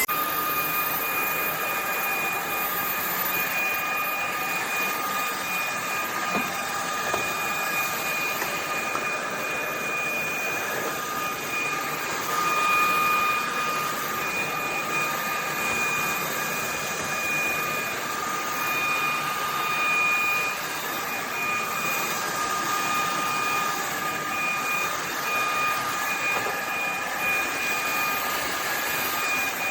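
VIAFLY cordless stick vacuum running steadily: a rush of air with a high, steady motor whine.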